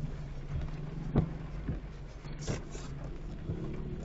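Car driving through heavy rain: steady engine and road noise under a hiss, with a sharp knock about a second in and a brief brighter swish a little later.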